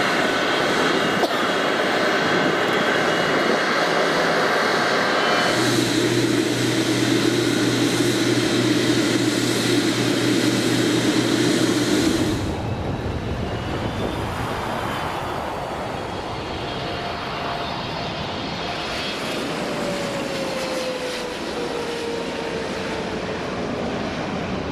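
Jet airliner engine noise: a loud, steady hiss and whine that changes abruptly twice, about five and twelve seconds in. In the later part a tone slowly falls in pitch.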